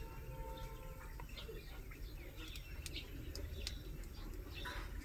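Scattered high bird chirps over a steady low background rumble.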